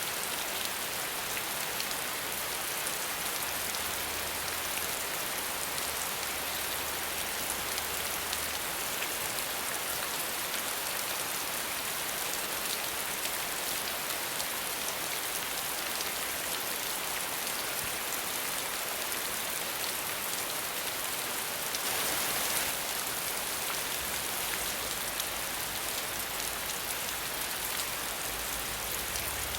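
Steady rain falling, a dense even hiss of many drops with no thunder. The rain swells briefly a little over two-thirds of the way through.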